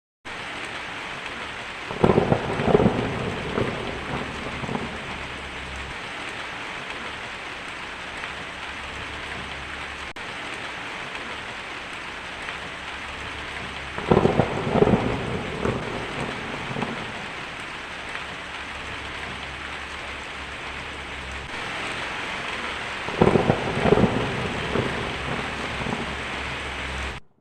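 Steady heavy rain hissing, with three thunderclaps that crack and rumble off over a couple of seconds each: one about two seconds in, one near the middle and one near the end.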